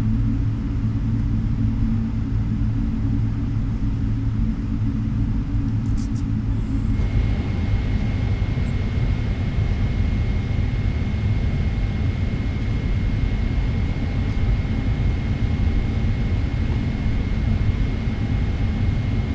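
Steady low rumble inside the cabin of a Boeing 777-300ER on the ground before take-off. About seven seconds in, a steady high whine and a layer of hiss set in and hold.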